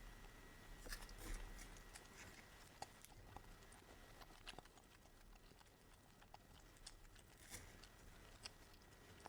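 Near silence with faint, scattered small clicks and mouth sounds of someone eating, a little busier in the first two seconds.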